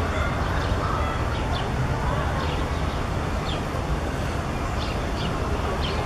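Small birds chirping, short high calls every second or so, over a steady low background rumble.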